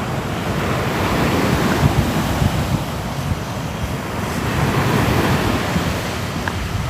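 Sea waves washing onto the shore in a steady surging rush that swells and eases.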